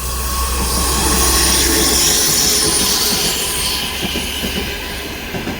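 A train running through a station platform close by: loud rumble and clatter of wheels on rail with a high hiss over it, loudest about a second or two in and easing a little toward the end.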